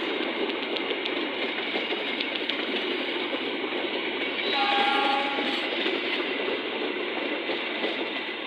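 Indonesian diesel train running past, with a short horn blast of under a second about halfway through.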